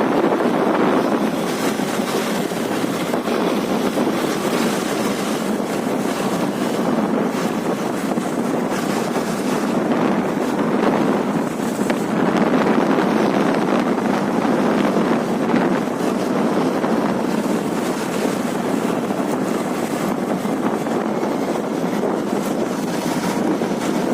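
Steady, loud wind rush buffeting the microphone while riding a motorcycle.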